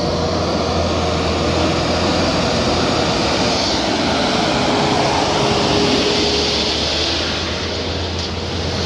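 Diesel truck engine running steadily: a low drone with a thin whine above it.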